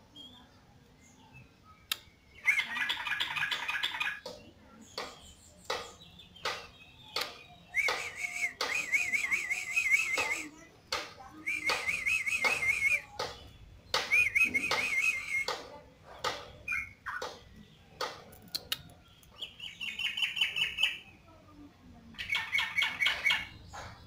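Yellow-vented bulbul (trucukan) singing vigorously in about six bursts of rapid, warbling trills, each lasting one to three seconds, with sharp clicks in between.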